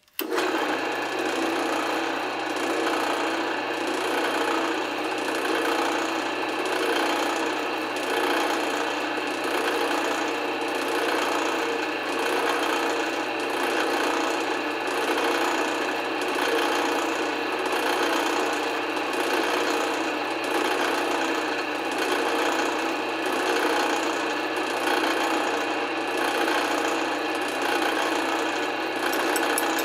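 Drill press running steadily while a rasping tool rubs against the spinning head of a steel screw held in the chuck, turning it down to a smaller, even size. The rasping swells about once a second, and it starts and stops abruptly.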